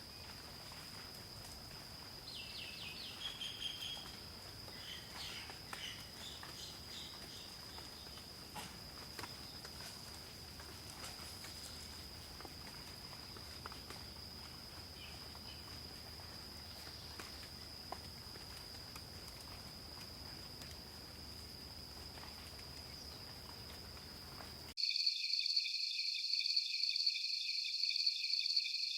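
Night forest ambience: a steady high insect trill, with scattered short chirping calls a few seconds in. About 25 seconds in it switches abruptly to a louder, rapidly pulsing insect chorus.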